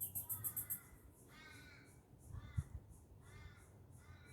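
Faint crow cawing in the background: about five calls, roughly a second apart, with a soft low bump midway.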